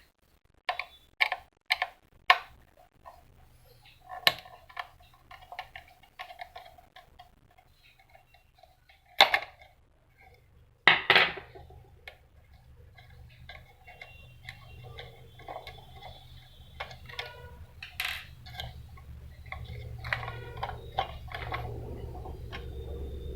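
Sharp clicks and knocks of plastic and metal parts of a Gprinter GP-C80250 Plus receipt printer being handled and unfastened during disassembly. A quick run of four clicks comes in the first few seconds, louder knocks come later, and a low hum builds up through the second half.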